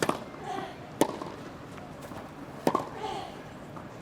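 Tennis rally: a ball struck hard by rackets three times, a second or more apart, with a player's grunt after the first and third hits.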